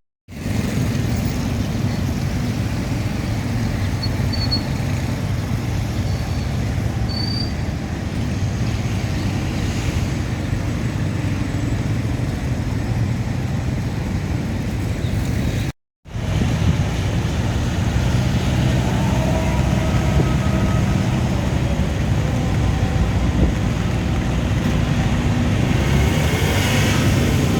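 Road traffic noise: the steady din of vehicle engines running and passing on the street. It cuts out completely for a moment about halfway through, then resumes.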